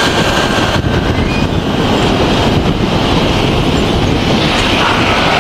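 Singapore Airlines Airbus A350-941's jet engines running loud, a steady deep rumble with hiss above it, the low rumble swelling in sharply at the start.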